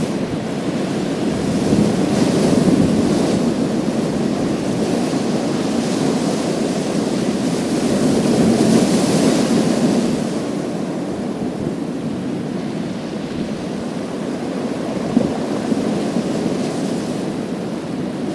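Sea waves breaking and washing over a pebble beach, a continuous surf rush that swells twice: about two seconds in and again around nine seconds, each time with a brighter hiss of water running through the stones.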